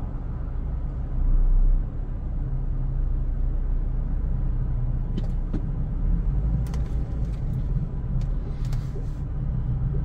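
Car engine running at a steady low rumble, with a louder low surge about a second and a half in and a few short, sharp clicks in the second half.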